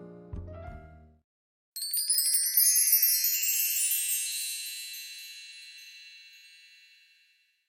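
The last piano notes of soft background music fade out. Then comes a shimmering sweep of a bar chime (mark tree), many small high bell tones in a rising cascade that rings on and fades slowly over about five seconds.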